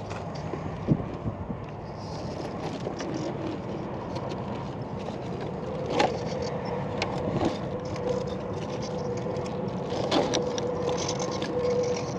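1/10-scale RC rock crawler working slowly over rocks: its electric motor and geartrain whine steadily from about halfway through, with a few sharp knocks of the chassis and tires against rock.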